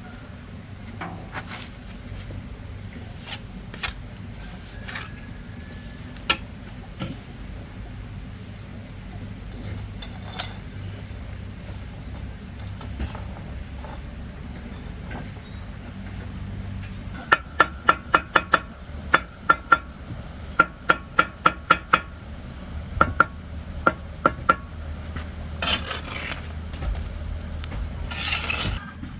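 A steady high whine throughout. About two-thirds of the way in come quick runs of loud, sharp knocks, several a second, each with a brief ring.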